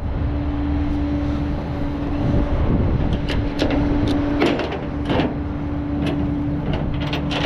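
Truck engine running steadily, a low rumble with a constant hum, with several short clicks and knocks scattered through it.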